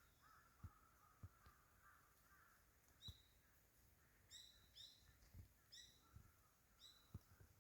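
Birds calling faintly: a run of about six short, clipped calls in the second half, over a softer continuous chatter, with a few brief low thumps scattered through.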